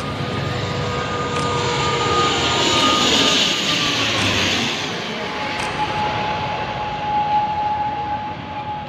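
Jet airliner passing low overhead on landing approach: engine noise swells to a peak and eases off, and its whine slides down in pitch as it goes past, then holds steady at a lower pitch.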